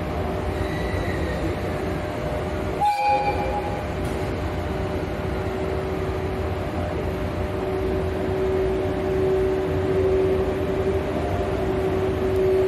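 Electric locomotive standing with a steady hum, with a short train horn blast about three seconds in. Another train pulls in alongside, the sound growing louder toward the end.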